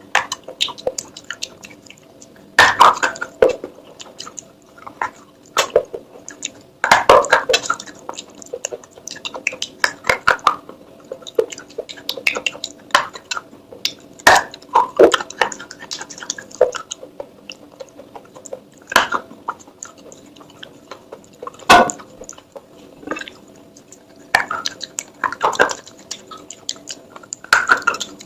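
Clay pots being handled: sharp clinks, taps and scrapes of fired clay in irregular clusters every second or two, over a faint steady hum.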